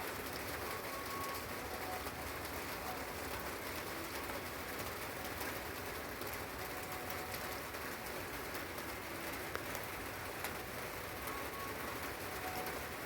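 Steady rain falling as an even hiss, with a few faint, short bird calls now and then and a couple of sharp drip ticks about ten seconds in.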